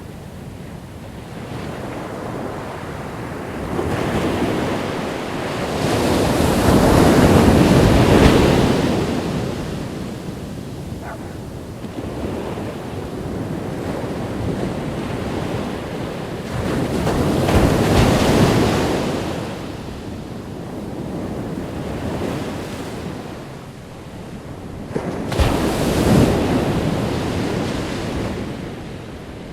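Ocean waves breaking on a beach, the surf swelling and fading three times, about ten seconds apart. Wind buffets the microphone throughout.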